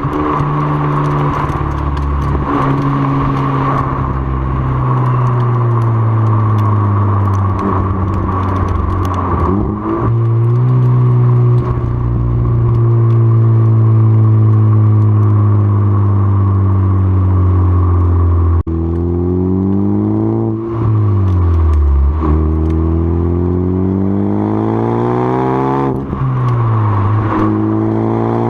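2013 Ford Focus ST's turbocharged 2.0-litre four-cylinder running loud through a CNT Racing cat-back exhaust and a catless 3-inch downpipe. The engine note climbs and falls several times: it rises about ten seconds in, sinks slowly for several seconds, then climbs again twice near the end.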